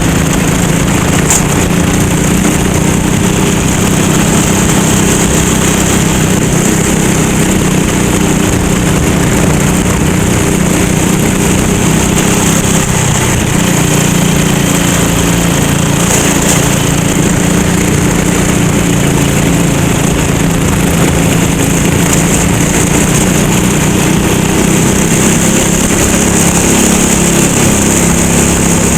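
Go-kart engine running continuously under racing load, its pitch holding fairly steady with a slight dip about twelve seconds in.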